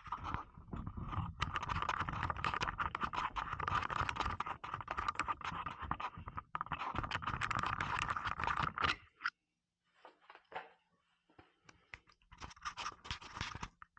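Dense scratchy, crackling rustle with many small clicks for about nine seconds as a smoke candle is handled and lit, then a few scattered light clicks.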